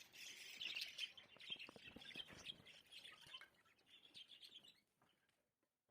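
Caged budgies and lovebirds chirping and chattering faintly, fading out a little before five seconds in.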